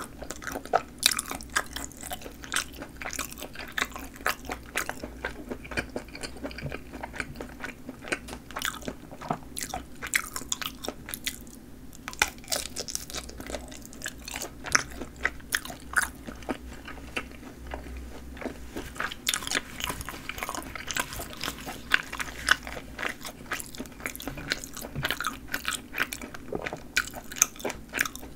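Close-miked eating sounds of a snappy-casing sausage being bitten and chewed, with many sharp crackling snaps from the casing throughout and a brief lull about eleven seconds in.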